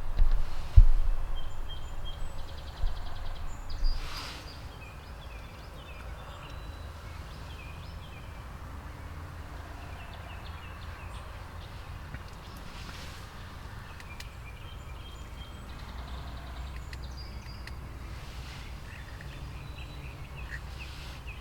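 Wild turkey tom gobbling a few times among steady small songbird chirps. A few low thumps come in the first few seconds.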